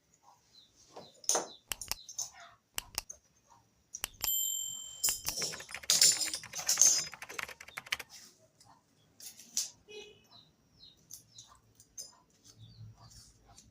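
Scattered clicks and knocks of small hard objects being handled, with a brief steady high tone about four seconds in and a louder stretch of rustling and clattering around six to seven seconds.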